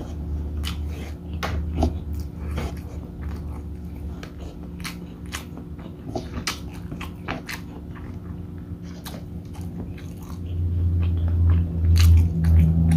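Close-miked eating: wet chewing, lip smacks and mouth clicks as mouthfuls of beef bopis and rice are eaten by hand. A louder low hum comes in over the last couple of seconds.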